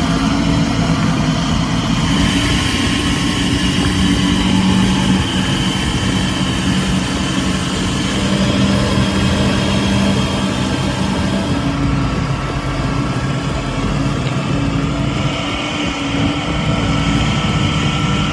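Heavy diesel truck engine running with a steady, loud drone.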